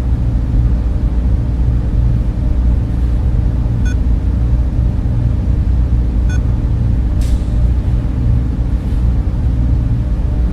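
Server room cooling fans running: a loud, steady whir with a low hum underneath and a few faint ticks.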